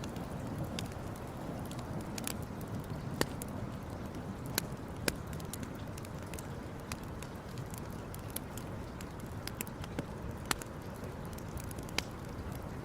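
Campfire burning with a steady low rush and irregular sharp crackles and pops, about a dozen over the stretch.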